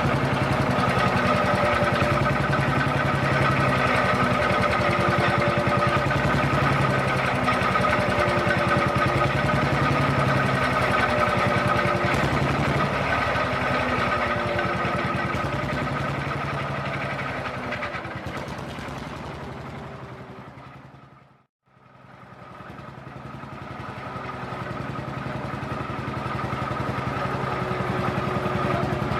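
An old tractor engine running steadily with an even, pulsing beat. It fades out about two-thirds of the way through, then fades back in.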